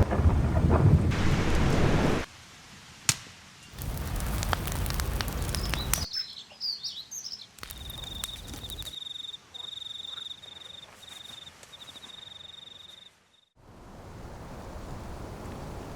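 Edited run of outdoor sounds that switch abruptly: heavy rain noise in two loud stretches, a sharp click, a few high bird chirps, then a long high whistling call broken into short pieces, and finally a steady quieter rushing noise.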